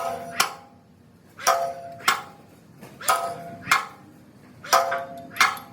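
Metal hammer blows on steel in a steady rhythm: two ringing strikes about half a second apart, repeated roughly every one and a half seconds.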